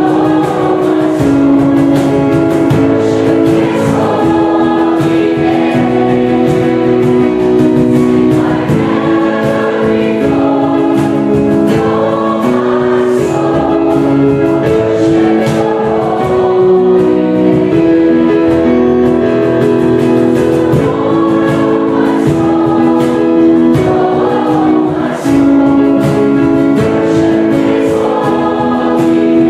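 Choir singing to an accompaniment with a steady beat.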